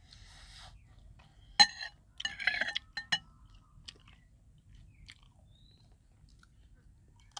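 Chewing and crunching of crisp food close to the microphone, in a few short bursts, the loudest a sharp crack about a second and a half in.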